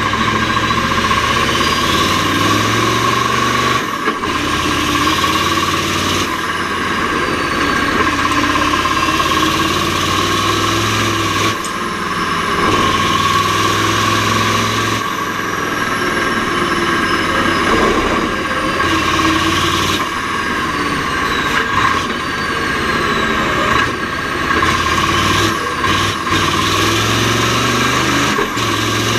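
Mack R series V8 diesel race truck engine running hard, its note breaking off briefly and picking up again every few seconds as it is shifted through the Roadranger gearbox.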